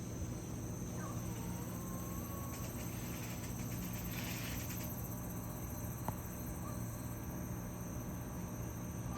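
Insects chirping steadily, with a louder pulsing trill from about two and a half to five seconds in, over a steady low hum; a single sharp click comes about six seconds in.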